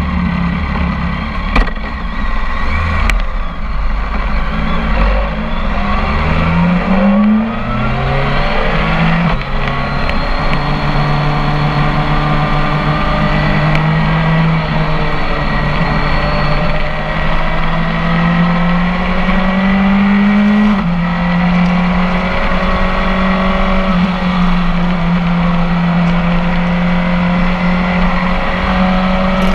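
BMW K1300 S inline-four engine through a full Akrapovic exhaust, heard from the rider's seat. It runs low at first, then revs up through several gears in quick succession with a drop in pitch at each shift, and settles into a steady note with gentle rises and one drop about two-thirds of the way through.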